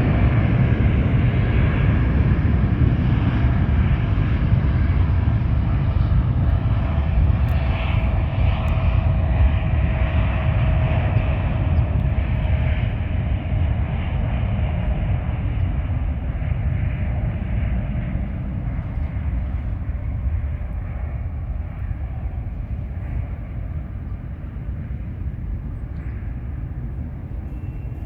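Jet airliner engines close by, a loud rumble and roar that slowly fades as the plane moves away, with a faint whine gliding gently lower in pitch.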